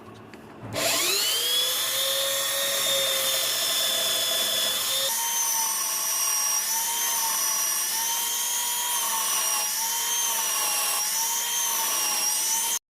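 Electric power tool motor spinning up to speed and then running steadily, its pitch wavering slightly as it works the metal; it cuts off suddenly near the end.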